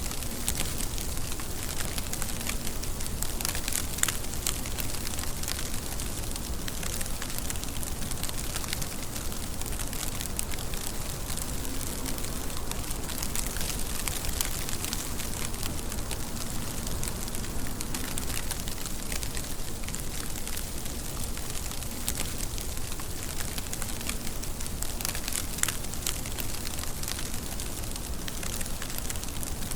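Steady rainfall, a continuous hiss thick with small close drop ticks and crackles.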